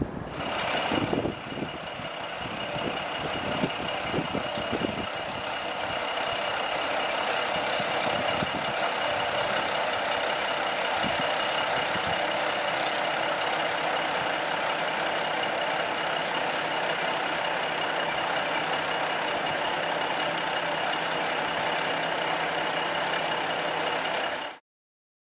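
Diesel railcar engine running steadily, with a thin high whine over it. A few low thumps come in the first few seconds, and the sound cuts off abruptly near the end.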